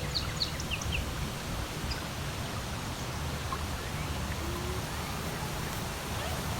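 Rushing water of a woodland beck and waterfall, a steady even rush, with a few short bird chirps in about the first second.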